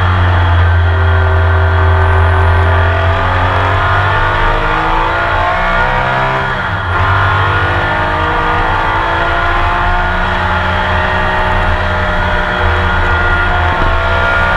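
Onboard sound of a Porsche 911 RSR's flat-six racing engine under hard acceleration, its pitch climbing steadily, broken by a quick dip about seven seconds in before it climbs again.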